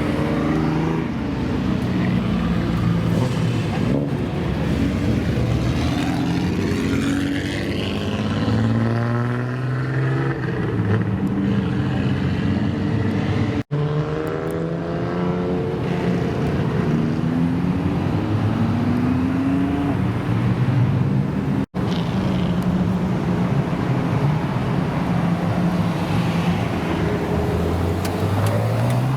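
Car engines running and revving, with cars accelerating away in several rising sweeps of engine pitch. The sound drops out for an instant twice, between separate shots.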